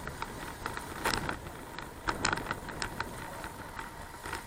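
Bicycle being ridden: irregular clicks and rattles from the bike over steady rolling noise, with a faint steady high whine throughout.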